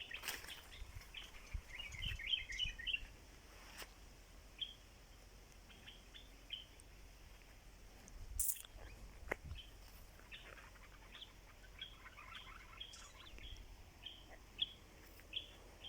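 Small birds chirping faintly, many short high chirps, denser in clusters near the start and again past the middle. A few sharp knocks or clicks break in, the loudest about eight seconds in.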